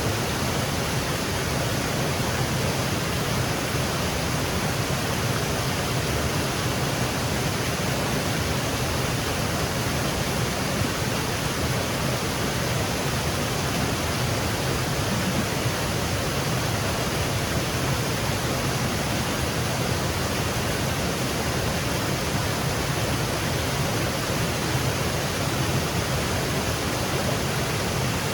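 Small woodland waterfall cascading steadily, an even rushing of falling water.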